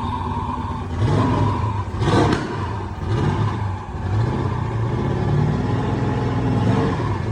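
Turbocharged 402 cubic inch LS V8 in an F-body idling, then revved up and down in several quick throttle blips, with a brief rushing hiss about two seconds in.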